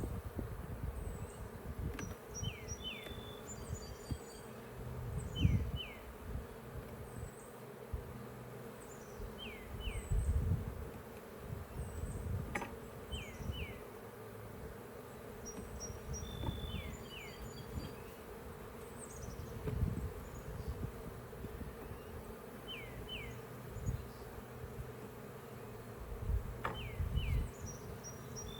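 Honeybees buzzing steadily around an opened hive, with irregular low knocks and bumps in between. Short high falling chirps, often in pairs, recur every few seconds.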